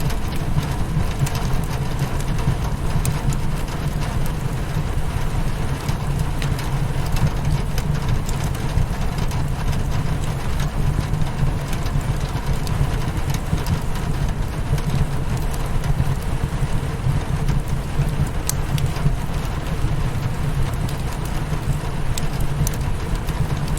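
Steady rain hitting a windowpane, with a dense low rumble and scattered sharp crackles of a wood fire in a fireplace.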